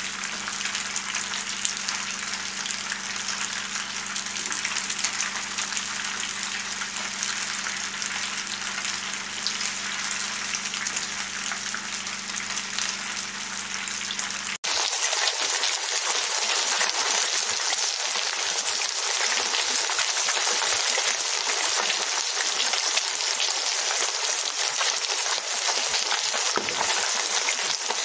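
Penne and minced meat sizzling in a frying pan as a wooden spatula stirs it, with a low hum underneath. About halfway through it cuts abruptly to a louder, hissier sizzle of a salmon steak frying in hot oil.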